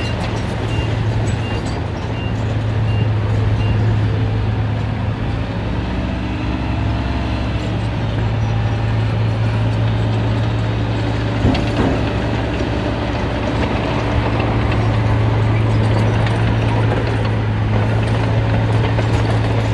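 Heavy construction vehicle's diesel engine running steadily with a deep hum, briefly rising in pitch a few seconds in. A reversing alarm beeps at an even pace during the first four seconds, and there is a single knock about halfway through.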